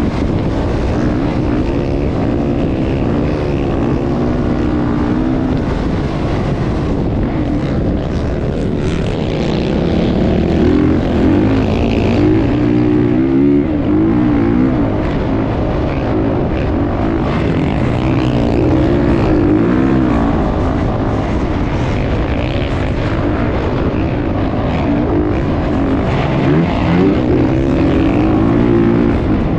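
Motocross dirt bike engine running hard, its pitch rising and falling again and again as the throttle is worked.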